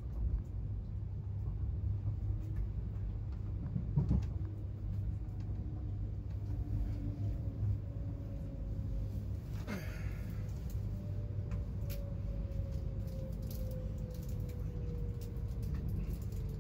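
Interior ride noise of an Avanti West Coast train under way: a steady low rumble of wheels on rail, with a faint whine that slowly falls in pitch over the second half as the train slows into a station. Two sharp knocks, about four and ten seconds in, the second with a short ring.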